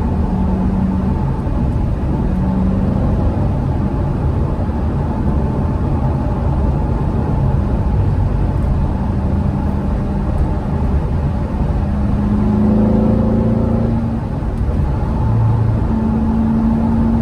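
2016 Corvette Stingray Z51's 6.2-litre LT1 V8 under way with its quad exhaust valves open and an X-pipe in place of the secondary cats, the engine note steady with road noise, climbing a little about two-thirds through, then easing briefly before picking up again.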